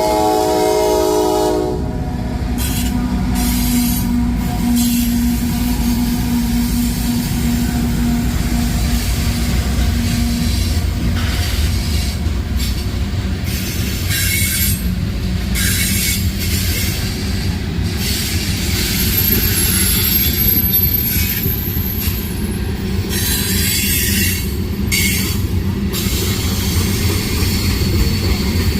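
Freight train passing. Its diesel locomotive's horn chord cuts off about two seconds in, then comes a steady rumble of locomotives and cars rolling by, with wheels clacking on the rails and a brief high wheel squeal about twenty seconds in.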